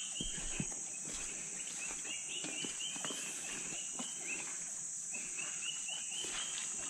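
Tropical rainforest insect chorus as a steady high-pitched hiss, with a bird repeating runs of short, quick high notes three times, each run lasting about a second. A few faint knocks sound underneath.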